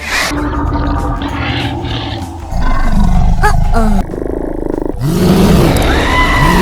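Loud, animal-like roars, the first starting about two and a half seconds in and the second about five seconds in.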